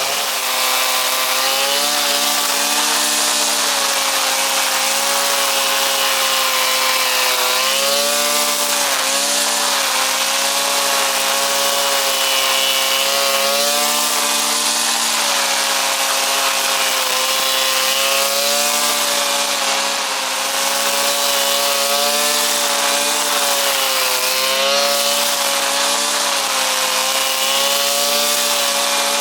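Brush cutter's small petrol engine running at high speed, its pitch wavering and dipping briefly a few times as it takes load, most clearly about eight seconds in.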